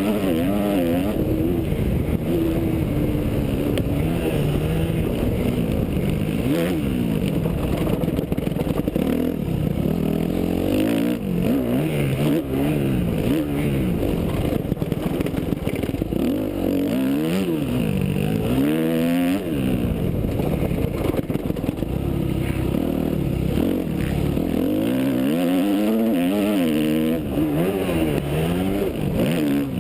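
Yamaha YZ250F four-stroke single-cylinder motocross bike engine, revved hard and backed off again and again, its pitch rising and falling every second or two, with a steady rush of wind and track noise underneath.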